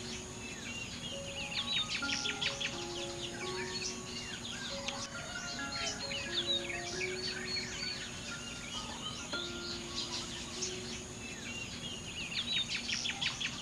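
Many small birds chirping, with rapid trills about two seconds in and again near the end, over a steady high insect drone. Soft, slow music of held notes runs underneath.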